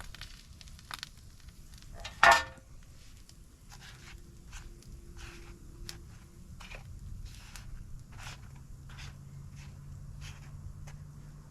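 Campfire crackling in scattered small pops, with one loud sharp clatter about two seconds in.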